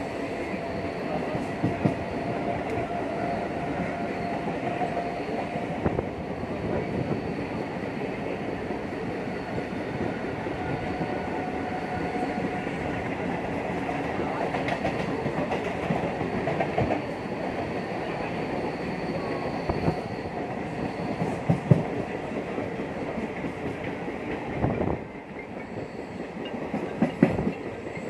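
Mumbai suburban local train running at speed, heard from inside the carriage: a steady rumble of wheels on rail with scattered clacks and knocks over rail joints.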